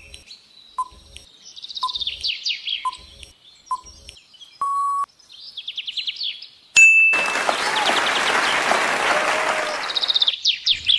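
Quiz countdown sound effects: short ticks about once a second under bird chirping, a short steady beep about halfway through, then a noisy burst lasting about three seconds, followed by more chirps.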